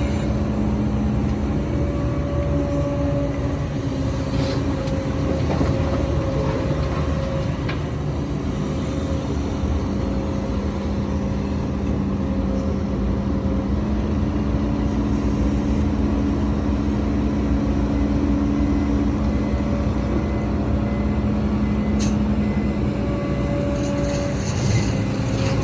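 Heavy diesel earthmoving machinery running steadily under work, a constant engine drone with held tones and no pauses.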